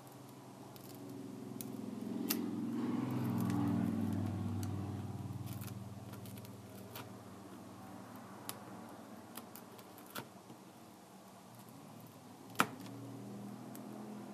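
Scattered small clicks and taps of hand tools working on a Kindle Fire tablet during a screen repair, one sharper click near the end. Under them runs a low hum that swells about two seconds in and fades by about six seconds.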